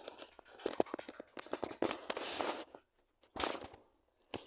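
Irregular clicks and taps mixed with short rustling noises, the longest stretch of rustling about two seconds in and another brief one near the end.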